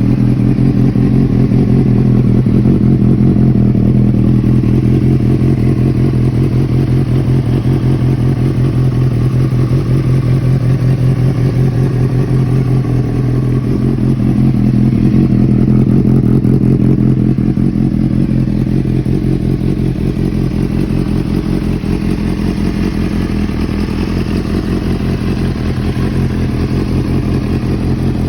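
Honda CBR600RR's inline-four engine running steadily through an aftermarket exhaust, holding a fairly even speed with only slight rises and falls.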